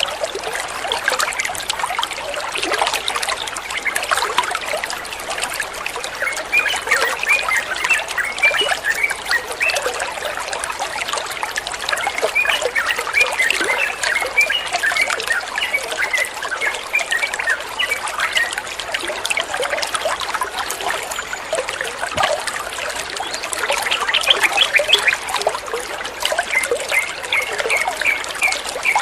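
Water trickling and running steadily, with a sooty-headed bulbul (trucukan) chirping in runs of short quick notes over it, thickest in the middle and near the end.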